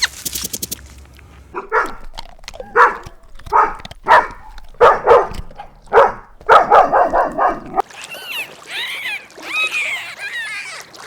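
A dog barking in a run of short, separate barks, about eight over six seconds, followed near the end by higher, wavering whimpers and yips.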